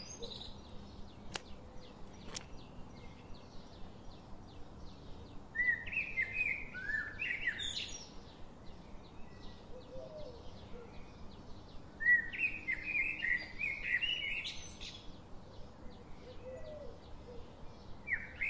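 Birds singing outdoors: a songbird gives two phrases of quick warbled notes, each about two seconds long, over a steady fast high ticking. Two sharp clicks come near the start.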